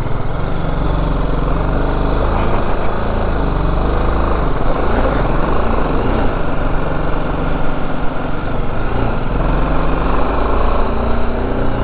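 BMW G310GS's single-cylinder engine running steadily while the motorcycle is ridden, its pitch shifting a little a few times.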